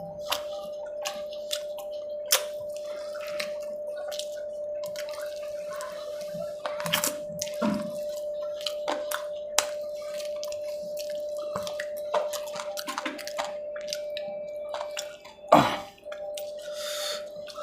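Wet eating sounds: mouth and lip smacks and clicks while chewing a mouthful of rice and fish curry, over a steady hum. A single louder knock comes about fifteen seconds in.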